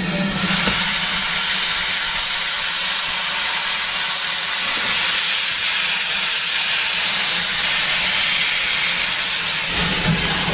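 Steam locomotive blowing off a loud, steady hiss of steam, which starts about half a second in and cuts off sharply near the end.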